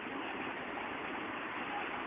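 Steady, even noise of a train approaching from a distance: an ED76 electric locomotive hauling 14 series coaches.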